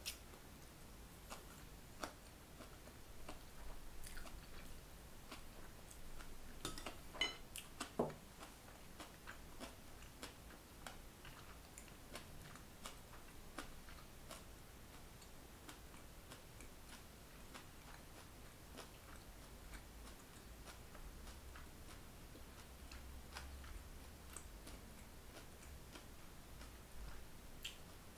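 Faint chewing of a mouthful of stir-fried beef brisket and bean sprouts, with scattered light clicks of mouth and tableware throughout. A brief cluster of louder clicks and taps comes about seven seconds in.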